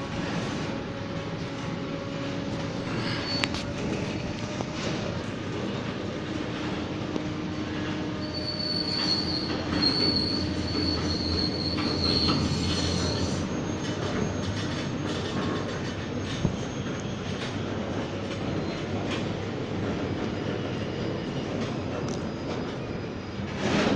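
Freight train creeping slowly as it starts off, with a steady rolling noise and scattered knocks, and a high wheel squeal for about five seconds near the middle.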